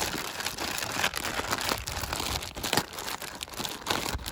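Plastic zip-top bag crinkling and rustling in quick, irregular crackles as potato chunks are worked around inside it to coat them in marinade.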